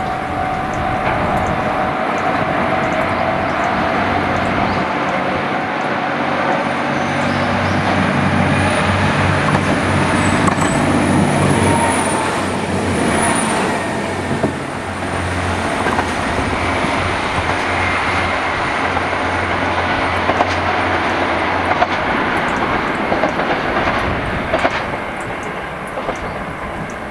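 A train running past on the rails: a steady rumble of wheels and running gear that is loudest near the middle and then eases. Now and then the wheels knock over rail joints.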